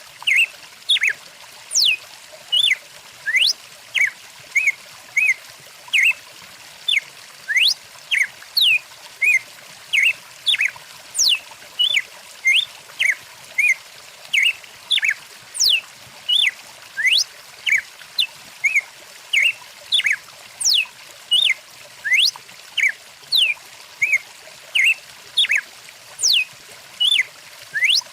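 Songbirds calling busily: short high chirps and whistles, some sweeping up or down in pitch, about two a second, over a faint steady rush of stream water.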